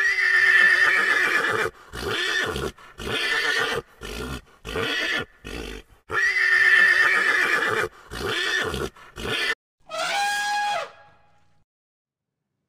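Horses neighing and whinnying, one loud call after another with short gaps between them. About ten seconds in, a short elephant trumpet falling in pitch, then silence.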